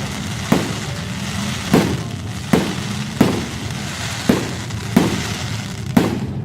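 Aerial fireworks exploding, about seven separate bangs at uneven intervals over a steady background din.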